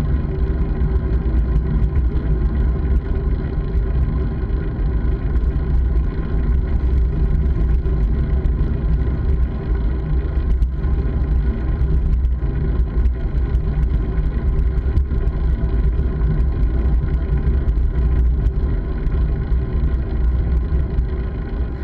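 Steady low rumble of wind buffeting and riding noise on a camera carried by a moving rider, with small rattles and ticks over it.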